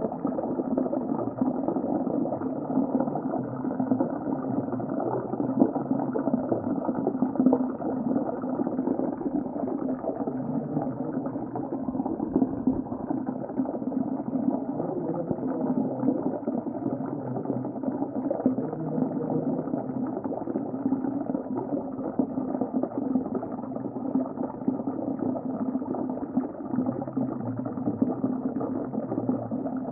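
Underwater ambience: a steady, muffled rush of water with dense bubbling and gurgling, dull and low-pitched, with nothing in the high end.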